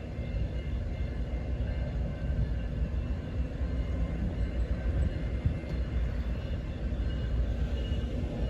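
Diesel locomotive leading a freight train on the approach: a steady low rumble that grows a little louder.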